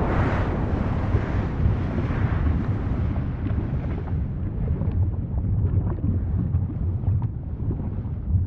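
Volcano eruption sound: a steady deep rumble, with a rush of hissing noise that fades away over the first few seconds and scattered small crackles and pops in the second half.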